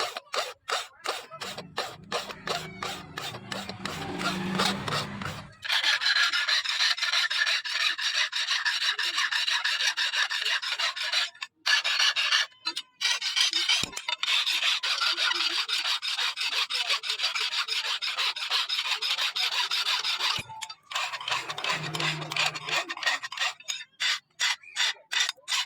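Hand filing with a file or rasp: quick separate strokes at first, then a fast continuous rasping from about six seconds in to about twenty, then separate strokes again.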